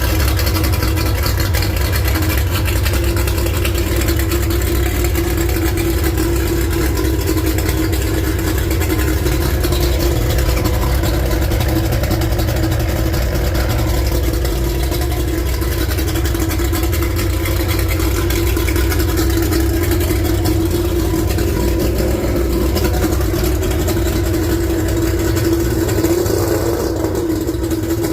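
Mercury 150 XR6 two-stroke V6 outboard motor running steadily at a constant speed.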